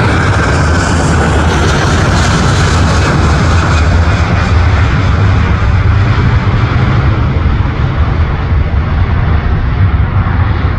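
Jet airliner engines at takeoff thrust: a loud, dense jet noise with a strong deep rumble. The hiss on top slowly fades as the aircraft climbs away, while the low rumble holds.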